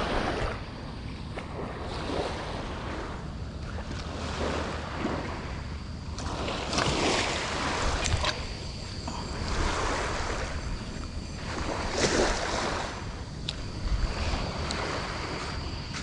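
Light surf: small waves breaking and washing up the sand in swells of hiss every few seconds, over a steady rumble of wind on the microphone.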